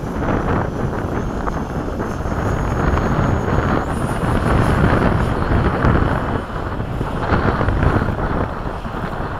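Radio-controlled electric ducted-fan jet flying in strong wind, with wind buffeting the microphone. The fan's thin high whine steps up in pitch about four seconds in.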